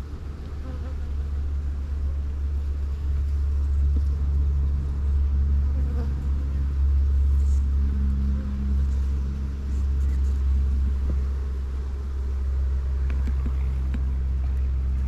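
Honeybees buzzing around an open hive under a steady low rumble that grows louder over the first few seconds.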